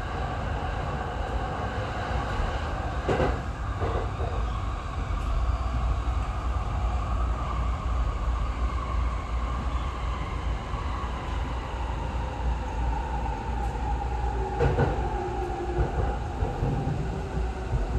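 Tokyo Waterfront Area Rapid Transit 70-000 series electric train running and slowing into a station: a steady rumble with a motor whine that slowly falls in pitch as it brakes. Two sharp knocks, about three seconds in and near the end.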